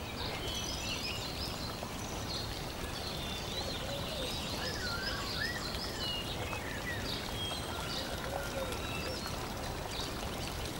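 Birds chirping and whistling in many short calls over a steady, even hiss.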